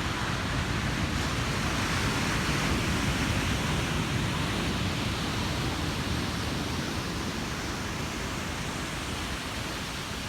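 Ocean surf: waves breaking and washing up the beach in a steady rushing hiss, swelling over the first couple of seconds and then slowly easing off.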